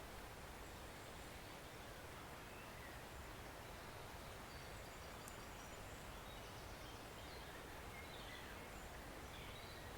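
Small woodland stream flowing, a steady, faint rush of water. A few faint, high bird chirps come in over it, mostly in the second half.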